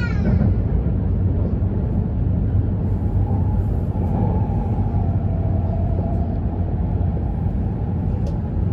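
Steady low rumble of an E2-series Shinkansen train running, heard from inside the passenger car. A faint tone rises out of the rumble from about three to six seconds in.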